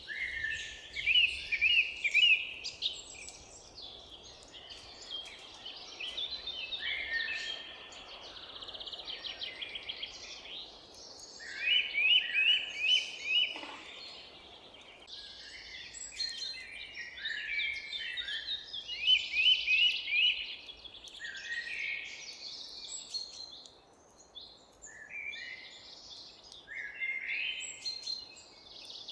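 Several songbirds singing and calling over one another, with quick repeated series of short chirped notes and trills coming and going, over a faint steady background hiss.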